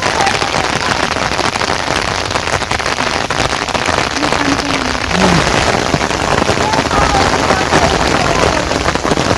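Heavy rain falling: a loud, steady hiss of countless drops striking surfaces.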